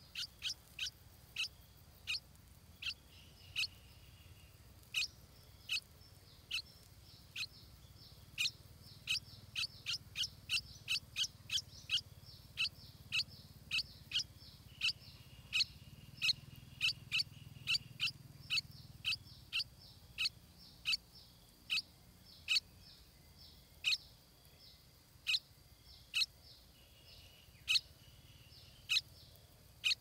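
A bird repeating short, sharp chip notes, irregularly spaced at about one to two a second.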